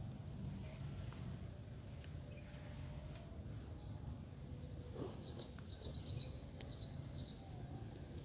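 Outdoor ambience: a low steady rumble with faint, high bird chirps scattered through it, clustering in a quick run of chirps past the middle.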